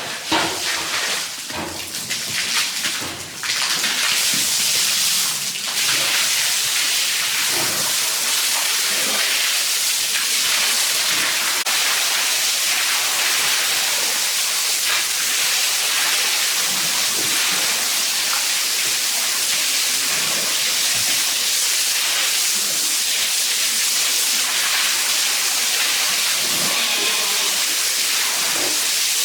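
Steady hiss of rushing water, uneven and splashy for the first few seconds, then settling into an even spray.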